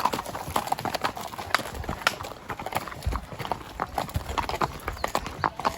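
Hoofbeats of a spotted saddle horse gelding: a steady run of sharp clip-clops, several a second.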